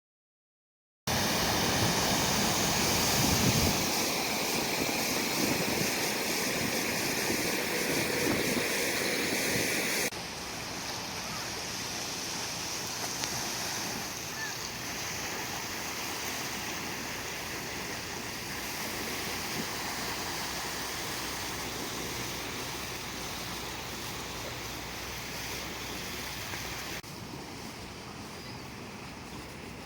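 Windstorm: strong wind with waves washing onto the shore as a steady rushing noise. It cuts abruptly to a quieter stretch about ten seconds in and drops again near the end.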